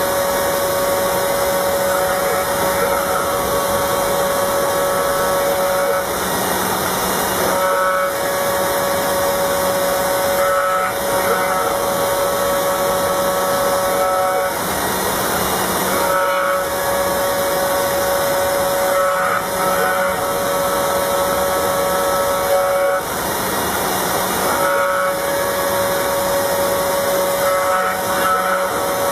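Small CNC router milling aluminium: a steady hiss with a pitched whine that holds for about seven seconds at a time and breaks off briefly three times.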